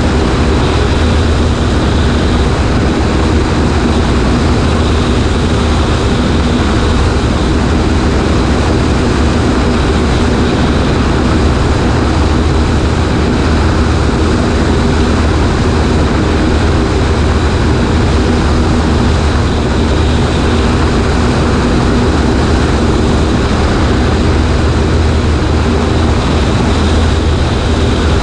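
Cessna 140A light plane's piston engine and propeller running steadily, a low drone under heavy, even rush of air over the wing-mounted microphone.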